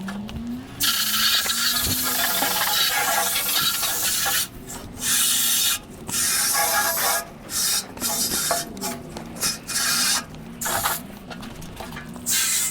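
Spray nozzle washing a furnace blower wheel, the water hissing in on-off bursts: one long spray lasting about three seconds, then a run of shorter squirts.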